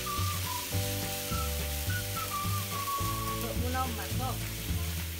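Blended chili paste sizzling as it fries in oil in a wok, stirred with a metal spatula, over background music with a bass line and a light melody.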